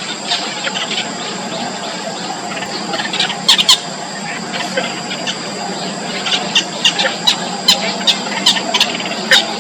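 Nestling songbirds giving short, sharp, high-pitched begging cheeps in quick runs, a brief cluster about three and a half seconds in and a longer run from about six seconds to near the end. Underneath is a steady hiss with a constant high-pitched whine.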